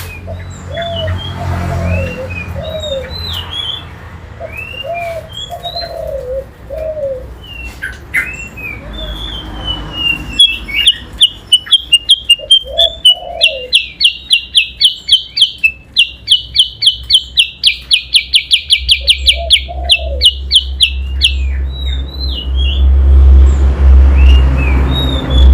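Caged songbirds, a kutilang sutra and an oriental magpie-robin (kacer), singing against each other in a series of short, curved whistled chirps. From about ten seconds in, a long fast rolling trill of rapidly repeated notes, several a second, runs for about ten seconds and is the loudest part. A low steady hum sits underneath.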